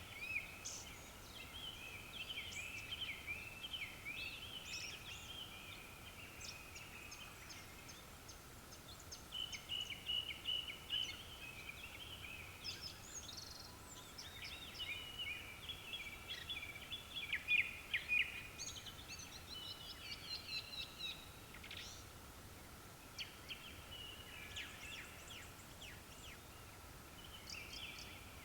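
Japanese thrushes singing: several birds giving quick, varied whistled phrases one after another in bouts, with short pauses between bouts.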